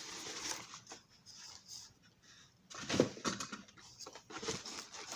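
Soft rustling of packaging being handled, with a few light knocks about three seconds in.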